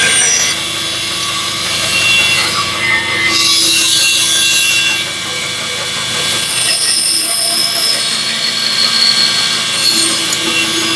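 Bandsaw running and cutting through a wooden board, its pitch and level shifting slightly as the cut is fed.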